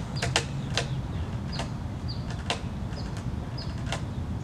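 A small bird calling repeatedly: sharp clicks and short, slightly falling high chirps at irregular intervals over a steady low outdoor rumble.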